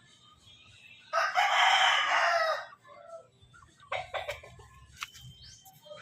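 A rooster crows once, a loud call lasting about a second and a half; a few faint clicks follow.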